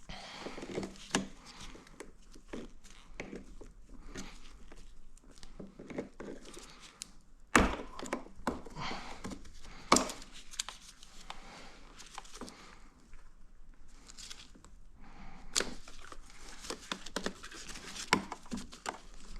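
Hands working a part loose on a motorcycle's fuel tank: scattered clicks, rustling and light knocks, with sharper knocks about seven and a half, ten and fifteen and a half seconds in.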